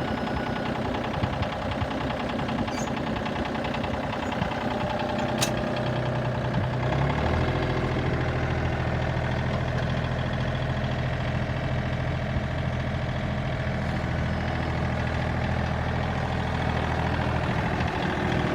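Tractor engine running steadily; about seven seconds in its sound changes to a stronger, lower steady drone. A single sharp click about five seconds in.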